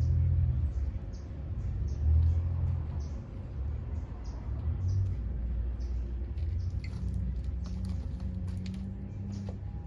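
Outdoor ambience: a low rumble that swells and fades, with short, high chirps repeating throughout.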